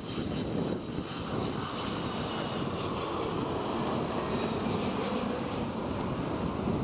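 Strong typhoon wind buffeting the microphone, over the steady noise of jet airliner engines with a faint high whine.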